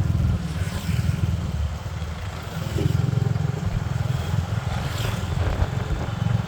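Small 125 cc motorbike running on the road with a passenger aboard, heavily overlaid by wind buffeting the microphone.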